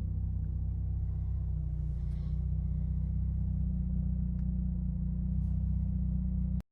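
Mazda RX-7 FD's turbocharged 13B twin-rotor rotary engine idling steadily, then cutting off suddenly near the end.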